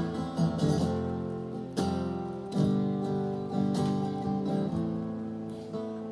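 Acoustic guitar strummed, a few chord strokes in the first three seconds, then the chords are left to ring and slowly fade.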